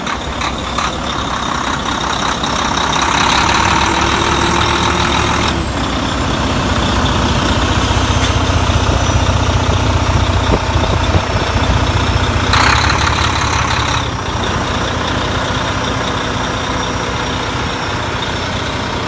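Volvo D13 inline-six diesel engine of a Volvo 670 truck tractor running steadily after a cold-free clean start, a low drone that grows louder through the middle, with two stretches of hiss over it.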